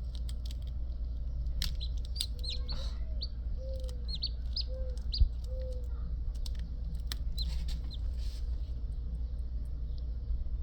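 Newly hatched chicks peeping in short, high, arched notes, several a second, thinning out after about eight seconds, with a few lower calls in the middle. A single knock about five seconds in, over a steady low hum.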